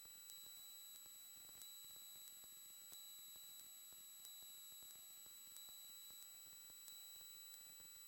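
Near silence: faint electronic hiss with a steady high-pitched tone and faint ticks about every two-thirds of a second.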